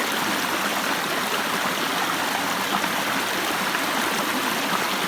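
Waterfall's rushing water, a steady, even hiss that doesn't change.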